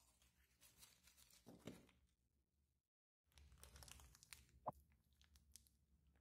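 Faint rustling and crinkling of packaging as a white wrapping sheet is pulled off a headphone cable and a small plastic bag holding an adapter plug is handled, with scattered crackles and one sharp click a little past the middle. The sound cuts out completely for a moment near the middle.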